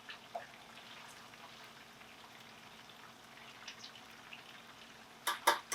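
Faint, scattered popping of thick sausage gravy simmering in a skillet, then two sharp knocks near the end.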